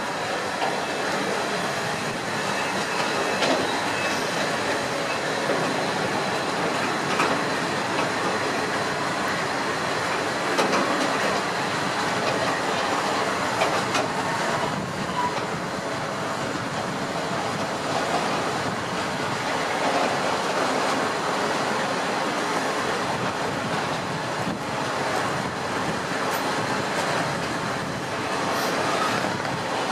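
Flat wagons loaded with railway sleepers rolling through the station, pushed by a PKP ET22 electric freight locomotive: a steady rolling rumble of wheels on rails with scattered clicks over the rail joints.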